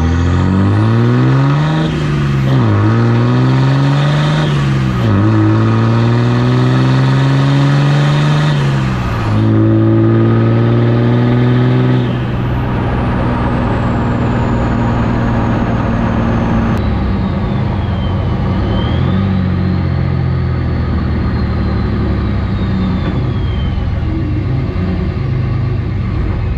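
2006 Ram's Cummins 5.9 L inline-six turbodiesel with a Stealth 64 turbo, pulling hard through three upshifts: the engine note climbs and drops at each shift, then settles into a steady cruise about twelve seconds in. A high turbo whistle rises with the spool and falls away once it is cruising.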